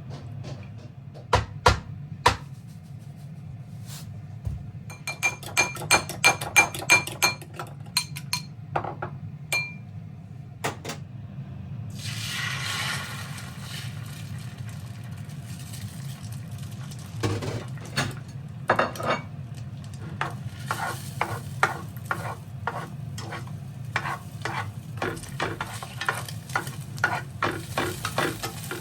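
Kitchen utensils working in a bowl: ringing metal clinks against the dish, a short hiss about twelve seconds in, then steady stirring taps at roughly two or three a second, over a low steady hum.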